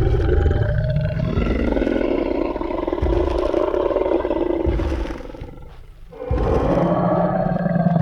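Tyrannosaurus rex roar sound effect: one long roar lasting about five seconds that fades out, then a second roar starting about six seconds in.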